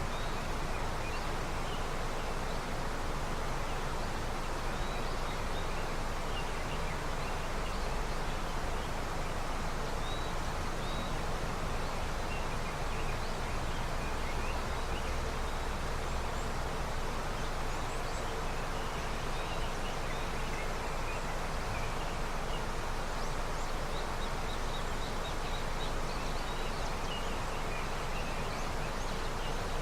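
A river running with early snowmelt, its water rushing as a steady, even noise. Faint, brief high chirps come and go above it.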